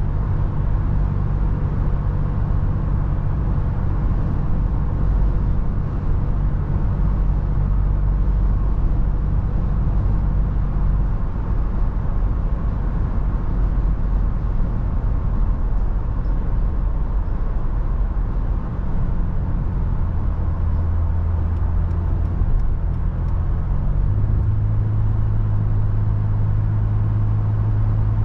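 Toyota FJ Cruiser driving: a steady low engine and road rumble whose engine note shifts a few times.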